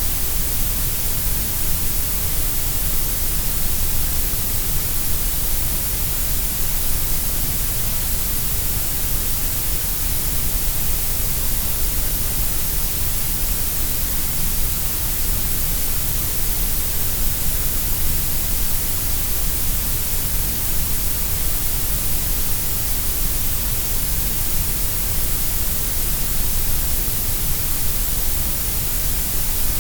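Steady synthesised grey noise: an even, unbroken hiss across the whole range, heavier in the deep lows and the highs than in the middle.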